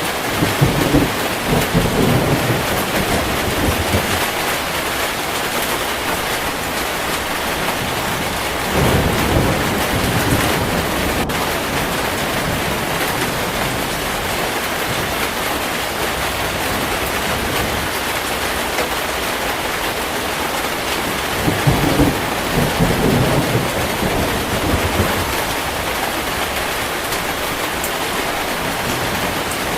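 Heavy rain falling steadily, with three rumbles of thunder: one at the start, one about nine seconds in, and one about twenty-two seconds in.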